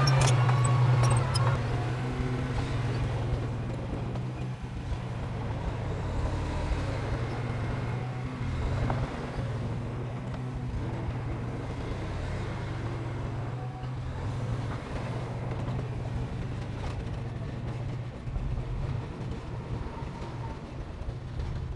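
Heavy construction machinery's diesel engine running with a steady low drone. It is loudest in the first second or so, then settles at a fairly even level.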